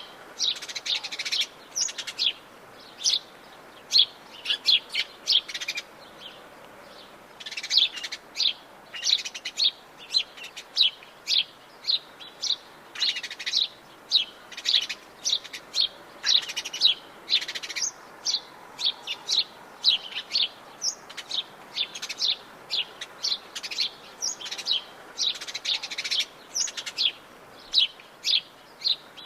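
Wild birds chirping: many short, high calls in quick succession, with a brief lull about six seconds in.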